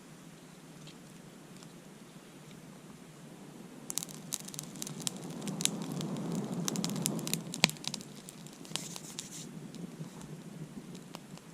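Burning wood crackling and snapping: about four seconds in, a run of sharp snaps over a swelling rush, with one loud snap near the middle, then it settles back to a faint hiss.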